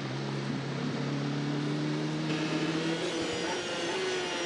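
Kawasaki endurance racing motorcycle's engine heard through its onboard camera, running steadily with its pitch rising slowly as it accelerates gently.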